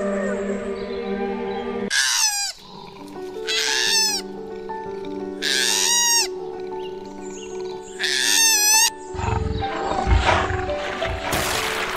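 An animal calling four times in short runs of high, downward-sweeping squeals, over background music with long held notes.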